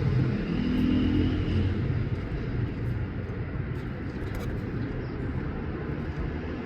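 A motor vehicle's engine running, its pitched note giving way to a low rumble that fades steadily as it moves away.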